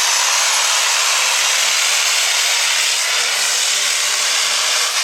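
Super stock diesel 4x4 pulling truck running at full throttle on a pull, a loud, steady rushing roar with a strong high hiss.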